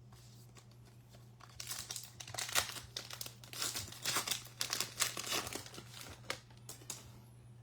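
Foil trading-card pack wrapper crinkling and tearing as it is opened and handled, in a string of irregular rustles.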